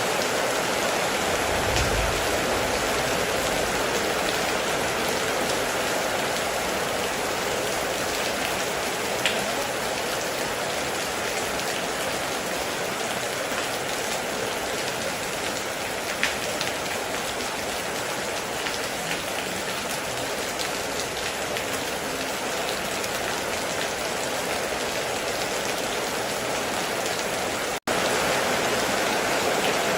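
Heavy, steady rain falling in a dense hiss, with a few sharper single drops standing out. A faint low rumble comes about two seconds in, and the sound cuts out for a split second near the end.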